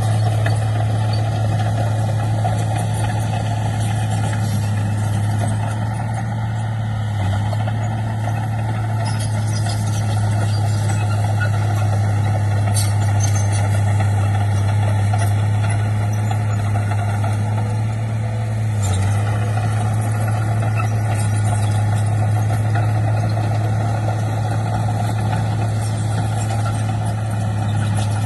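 Heavy diesel earth-moving machinery running steadily under load, a loud low drone that holds through, with a few light clicks.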